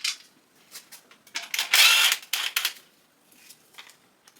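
Scraping and rustling of an engine part being handled and worked loose by hand: a tick at the start, then a burst of scraping noise lasting just over a second, about a second and a half in, and a few faint taps near the end.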